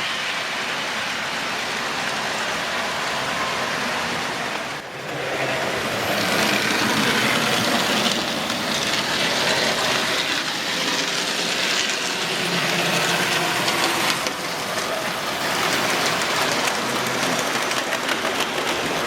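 OO gauge model trains running on the layout's track: a steady rolling rattle of wheels on rail. It dips briefly about five seconds in, then grows louder.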